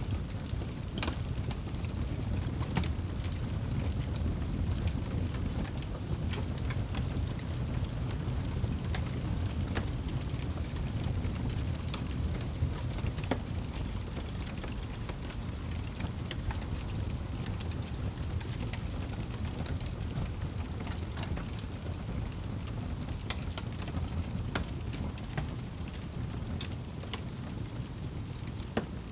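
Wood fire burning in a fireplace: a steady low rumble of flames with frequent scattered sharp crackles and pops.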